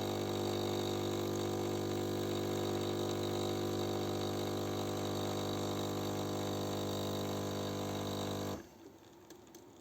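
Philips 5400 series coffee machine running with a steady, even hum as it pumps water through to dispense the coffee. It cuts off suddenly near the end, leaving only faint ticks.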